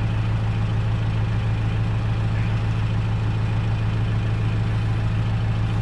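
An engine running steadily at idle, a low even drone that does not change.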